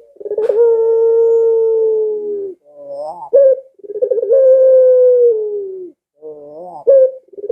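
Barbary dove (puter, pelung type) cooing over and over. Each coo is a short rising note followed by a long, drawn-out, steady coo of about two seconds that sags in pitch at the end. Two full coos are heard, and a third begins near the end.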